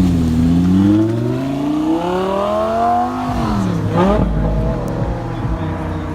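A car engine revving as it accelerates. Its pitch climbs steadily for about three seconds, drops sharply and rises again about four seconds in, then holds fairly steady.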